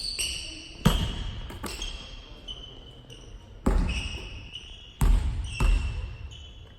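Basketball bouncing on a gym floor: four loud thuds at uneven intervals, each echoing through the hall, with short high squeaks in between.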